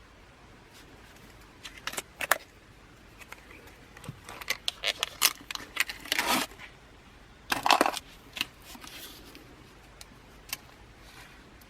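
Irregular light clinks and rattles of small hard objects being handled, in a few short clusters, loudest about a third and two-thirds of the way through.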